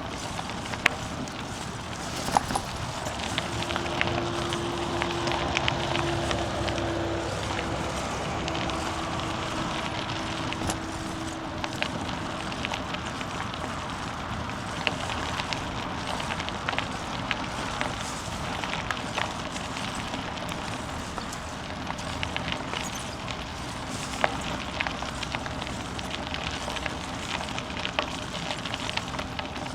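Bicycle tyres rolling over a rough forest path: a continuous crunching rumble with frequent small clicks and pops. A steady hum joins for several seconds near the start.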